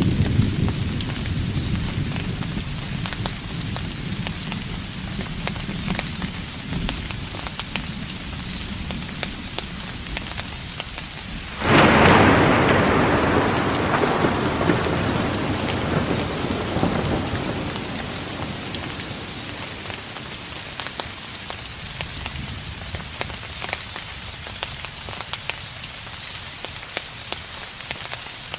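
Steady rain with close drop ticks, and thunder: a low rumble rolls off at the start, then about twelve seconds in a sharper, louder thunderclap breaks and rumbles away over several seconds.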